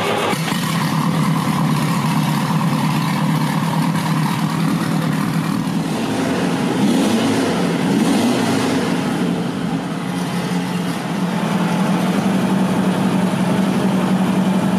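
Vintage racing special's engine running just after being started, idling with a hoarse note and revved up and down a few times about midway.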